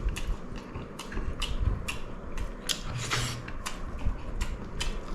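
Close-up eating sounds from someone chewing pulao and beguni: a string of sharp, irregular mouth clicks and smacks.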